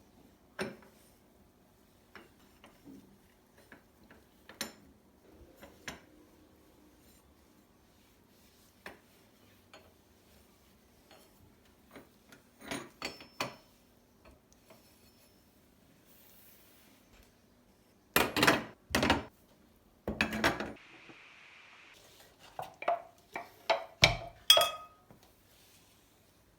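Dishes and cutlery being handled: scattered clinks and knocks, two louder clatters about two-thirds of the way through, a short hiss, then a quick run of clinks near the end.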